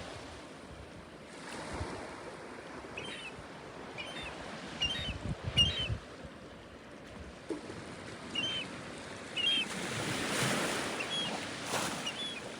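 Gulls giving short, high calls again and again over a steady rushing background, which swells for a couple of seconds near the end.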